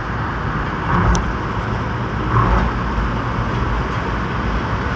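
Road traffic noise: a steady rumble of motor vehicles.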